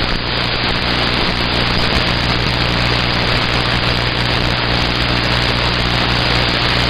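CB radio receiver playing a steady loud hiss of static with a low steady hum under it, an open carrier with no voice on it.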